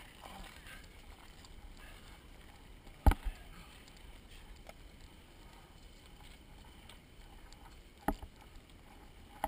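Low rumbling noise broken by a few sharp knocks: a loud one about three seconds in, a smaller one just after, and others about eight seconds in and near the end.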